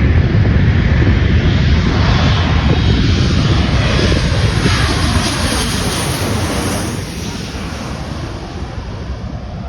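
Jet airliner passing close on its landing approach: a loud engine roar with a whine that falls in pitch as it goes by, fading after about seven seconds.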